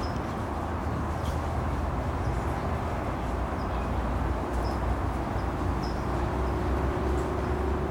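Outdoor ambience: a steady low rumble of background noise, with several short, faint high chirps scattered through it.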